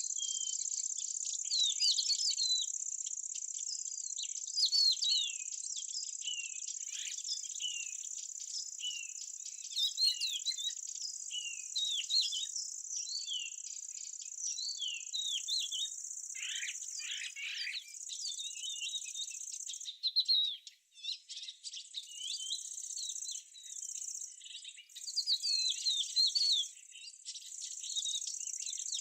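Insects, most likely crickets, keep up a steady high trill while small birds give many short chirps over it. The trill briefly drops out about two-thirds of the way through.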